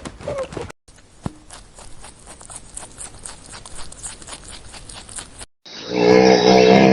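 Hooves clicking at a quick, even pace, about five or six steps a second. Near the end it cuts to a loud, pitched animal call.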